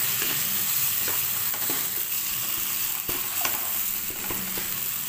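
Chicken and onion samosa filling sizzling in a stone-coated non-stick pan while a wooden spatula stirs and scrapes it, with a few light knocks of the spatula against the pan over a steady sizzle.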